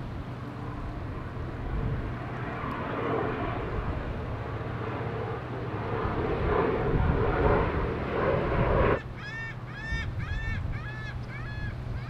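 A steady low hum under a rushing noise that swells and cuts off suddenly about nine seconds in. Then a bird calls a quick series of about seven short, ringing, arched notes.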